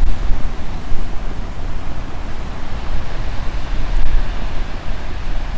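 Heavy sea surf washing and breaking on the shore, with strong wind buffeting the microphone in a fluctuating low rumble.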